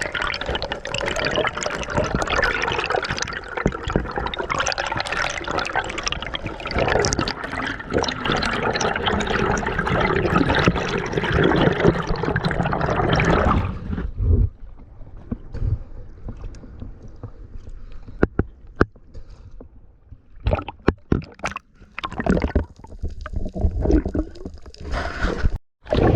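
Water sloshing and gurgling around a snorkeller's camera at the surface. About halfway through it drops to a quieter underwater hush with scattered clicks and pops as he goes under.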